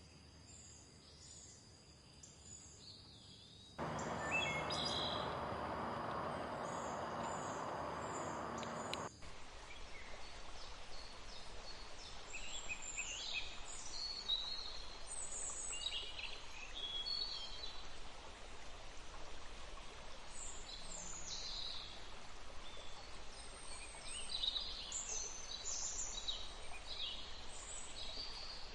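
Forest birds chirping and trilling over the steady rush of running water. About 4 s in, the water noise suddenly grows loud. About 9 s in, it cuts off abruptly to a softer background under denser, busier birdsong. A steady high tone sits under the first part.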